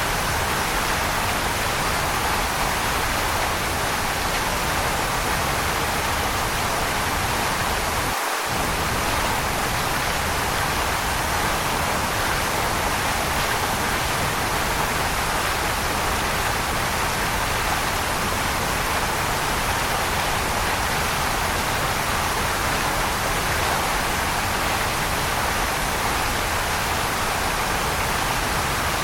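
Waterfall rushing in a steady, even roar of falling water, with no change in level except a brief dip in the low rumble about eight seconds in.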